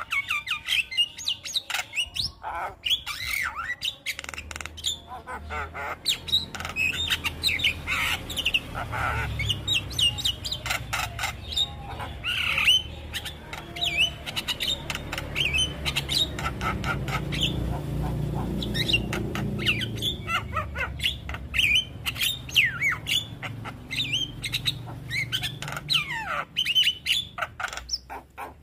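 Javan myna (jalak kebo) singing and chattering: a rapid, unbroken stream of harsh squawks, clicks and short gliding whistles.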